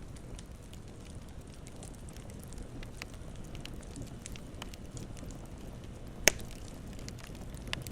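Campfire crackling: scattered sharp snaps over a low steady rumble, with one loud pop a little past six seconds in and a smaller one near the end.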